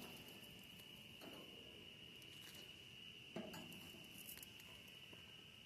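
Near silence: faint steady high-pitched hum and light hiss, with two soft knocks, about a second in and again about three and a half seconds in.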